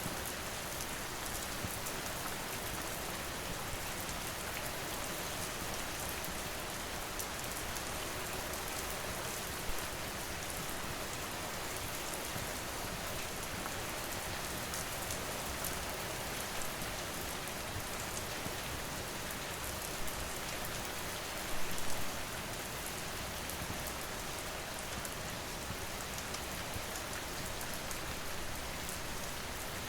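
Steady rain falling, an even hiss of many drops, with a few brief louder pops from a crackling wood fire: one about ten seconds in, another near twenty seconds, and a short cluster just after.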